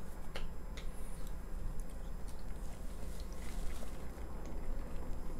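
Close-miked chewing of Irish soda bread and corned beef: soft, wet mouth sounds over a low steady hum, with a small click about half a second in.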